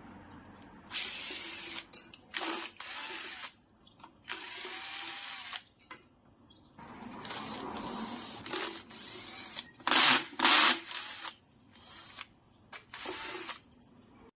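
An electric screwdriver running in a series of short bursts, each up to about two seconds long, with pauses between them, backing screws out of a fan's housing. The loudest bursts come about two-thirds of the way through.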